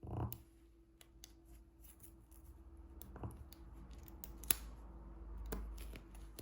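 Diamond painting handling sounds: scattered small, sharp clicks and snips from the tools, with a soft thump at the start and one louder click about four and a half seconds in.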